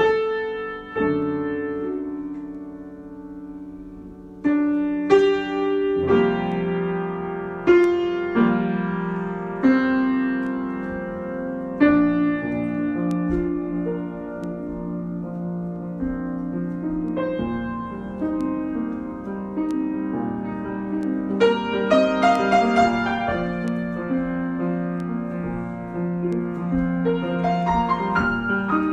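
Solo piano improvisation: chords struck and left to ring and fade, with a quicker cluster of notes a little past the middle.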